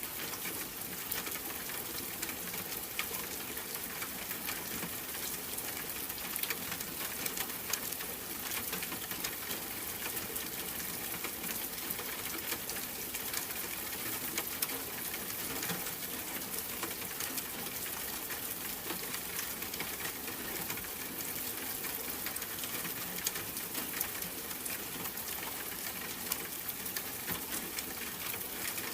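Steady rain, an even hiss of falling water dotted with many small drop ticks.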